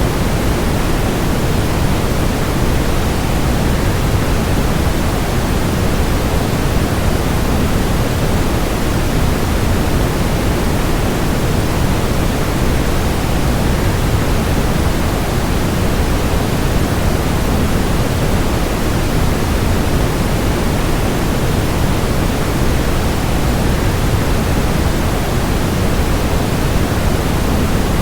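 Steady rushing noise of a waterfall blended with white noise, heavier in the low end and unchanging throughout.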